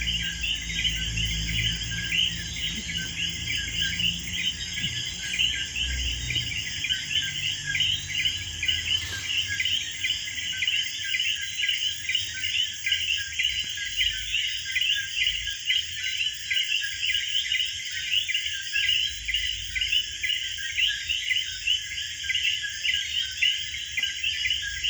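Insects, crickets or cicadas, chirping in a dense, unbroken chorus of rapid pulses, with a steady high ringing above it.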